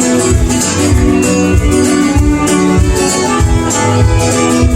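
A band playing an instrumental passage of a country-style song: guitar over a steady drum beat, with no singing.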